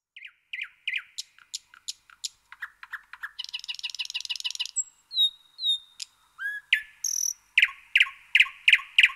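Songbirds chirping and calling: a run of sharp chirps, a fast buzzy trill in the middle, a few whistled notes, then a string of loud repeated chirps, about three a second, near the end.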